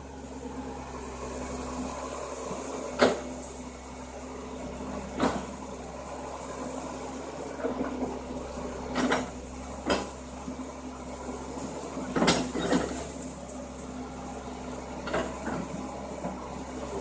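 Excavator at work: a steady engine hum with sharp metal clanks and knocks every one to three seconds.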